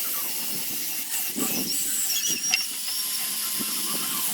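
A tool working the wood of a carving, giving a steady hiss with small uneven scrapes underneath.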